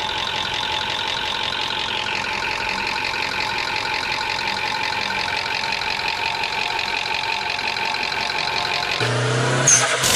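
High-mileage Toyota engine running with a steady, rhythmic mechanical noise. The mechanic links the noise to heavy sludge buildup under the rocker cover and hopes an engine flush will reduce it. About nine seconds in, a whooshing logo sound effect with a low hum takes over.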